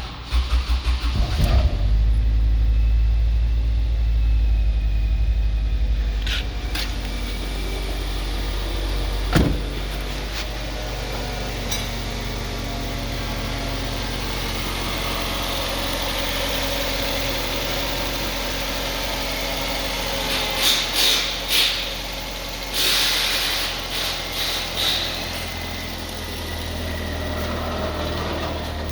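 2004 Ford Focus 2.3-litre inline-four engine cranked by the starter for about a second and a half, catching and then running at a steady idle. A few short, louder bursts of noise sound over the idle in the last third.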